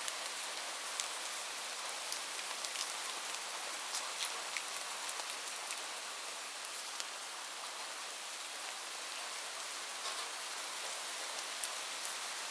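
Light rain falling steadily, a soft even hiss with many individual drops ticking sharply on a surface.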